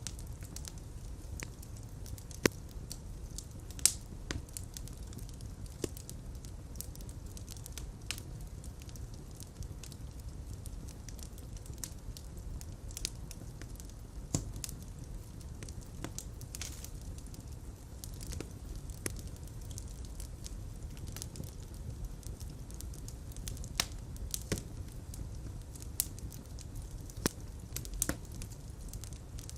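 Fire crackling in a fireplace: a steady low rumble of flames with irregular sharp pops and snaps, two of them louder than the rest near the start.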